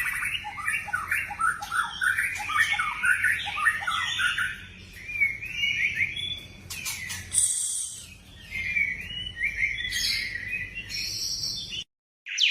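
White-rumped shama singing a fast, varied song of quick whistled notes and phrases, with a couple of brief lulls; the sound cuts off abruptly near the end.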